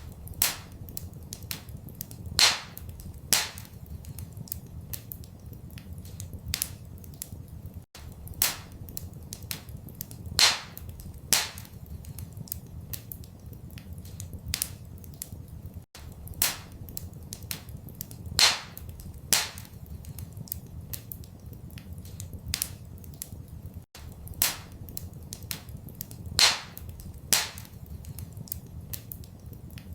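Wood fire crackling in a fireplace, with frequent sharp pops and snaps over a steady low rumble. It is a short loop that repeats every eight seconds, with a brief dropout at each seam.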